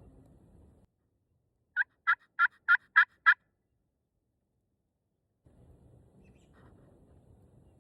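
A turkey yelping: a run of six loud, evenly spaced yelps, about three a second.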